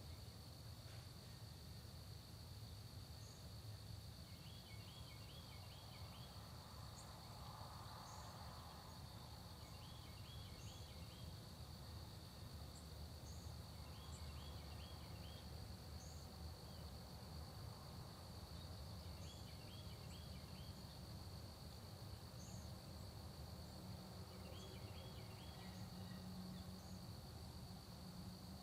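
Faint early-morning countryside chorus: a steady high insect drone throughout, with a short phrase of four or five quick notes repeated about every five seconds and faint high chirps scattered between, over a low rumble.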